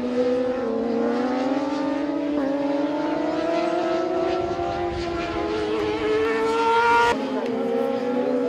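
Racing sport-bike engines running hard as two motorcycles ride a corner, their pitch climbing slowly as they pull through the gears. The sound changes abruptly about seven seconds in.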